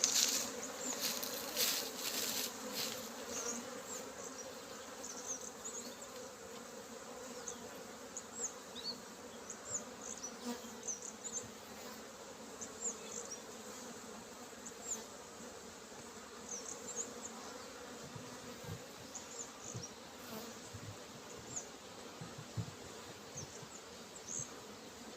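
Honeybees buzzing steadily around an open hive, with a few sharp handling knocks in the first couple of seconds and scattered faint high chirps.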